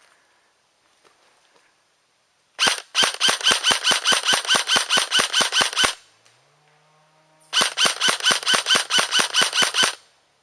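Airsoft gun firing two rapid strings of shots at about six a second: the first lasts a little over three seconds, and the second, a couple of seconds long, starts after a short pause.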